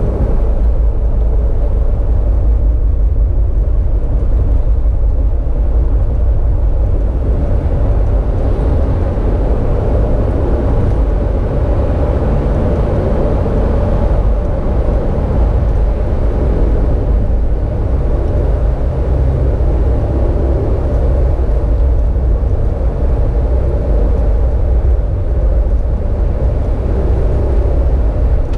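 Steady low rumble of a moving road vehicle, running evenly throughout with no distinct events.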